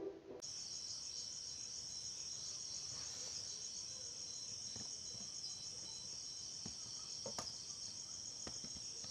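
Night chorus of crickets: a steady, high, finely pulsing trill that comes in about half a second in as a short stretch of music cuts off.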